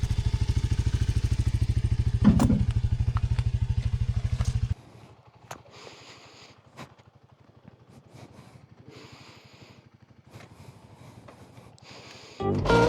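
Gas dirt bike engine idling close by with an even, steady pulse and a brief louder blip about two seconds in, cutting off suddenly about five seconds in; after that only faint scattered clicks and hiss until music starts at the very end.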